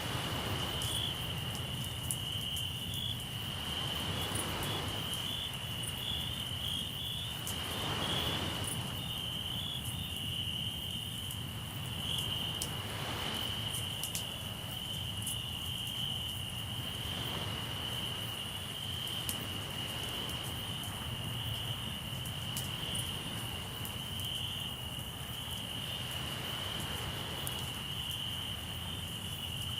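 Crickets chirping in a steady high trill, over sea waves washing in every few seconds and the occasional small pop of a campfire.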